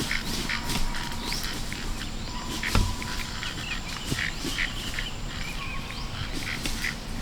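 Birds chirping: many short calls repeated irregularly, with a single knock about three seconds in.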